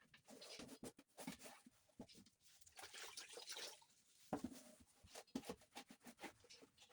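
Near silence with faint rubbing or scraping and scattered light clicks, as of things being handled.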